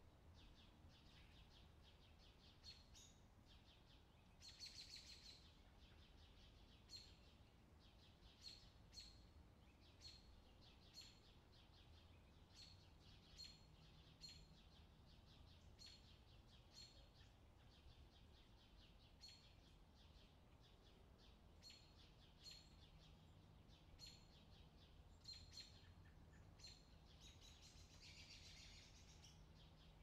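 Faint outdoor summer ambience: a bird's short, high chirps repeating about once a second over a low steady hum, with a busier burst of chirping near the end.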